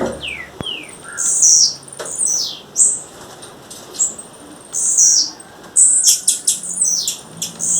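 Female blue-black grassquit (tiziu) calling: a series of high, sharply falling notes, about one a second, with a quick run of sharp clicks a little past the middle.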